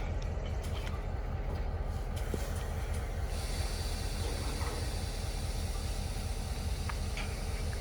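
Steady rumbling noise of a passing heavy vehicle, with a hiss that grows louder about three seconds in.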